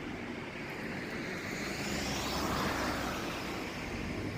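A vehicle passing by: a rush of noise that swells to a peak a little past halfway and then eases off.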